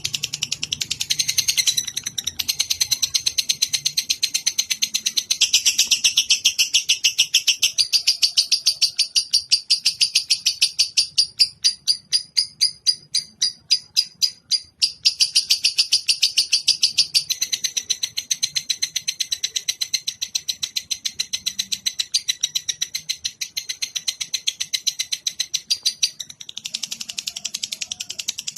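A high-pitched animal trill of rapid chirps repeating many times a second, part of a songbird training recording. It runs almost without a break, and for a few seconds around the middle the pulses slow and stand apart before speeding up again.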